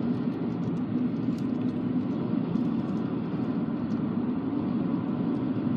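Steady engine and road noise inside a moving car's cabin: a low, even rumble with a faint hum running through it.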